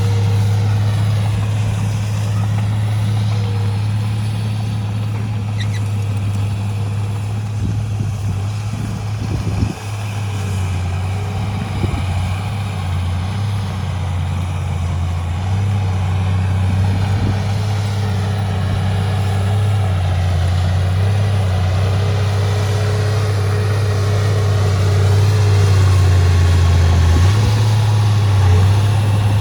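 Heavy diesel engine of earthmoving machinery running as a steady low drone, with a brief knock about ten seconds in and a change in engine note near the end.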